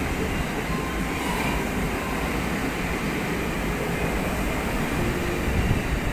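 A train running, a steady low rumble with faint tones over it.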